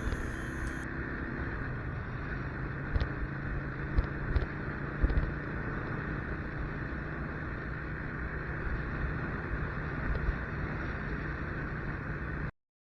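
Motorcycle riding along at a steady pace: engine drone with road and wind noise, and a few brief knocks a few seconds in. The sound cuts off suddenly near the end.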